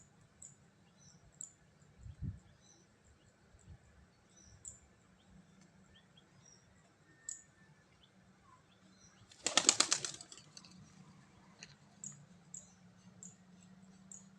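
A pigeon's wings flapping in a rapid burst of wingbeats lasting about a second, about two-thirds of the way in, as the bird takes off. A dull thump comes about two seconds in, and faint high chirps tick along throughout.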